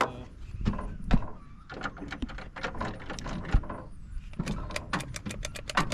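A string of small metallic clicks and rattles from hands working on the truck's wiring with keys or tools, with a quick run of clicks near the end.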